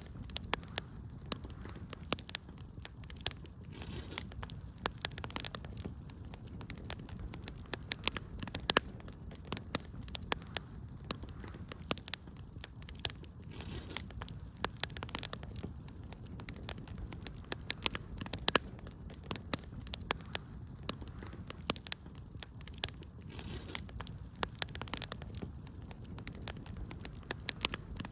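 Wood fire crackling, with frequent irregular sharp snaps and pops over a low steady rumble.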